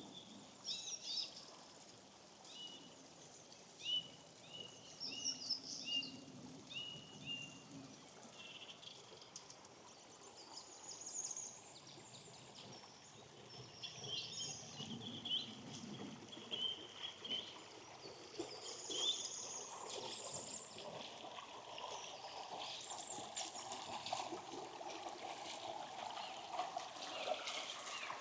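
Small songbirds calling and singing, with a run of short repeated notes early on, over the steady running of a small stream that grows louder in the second half.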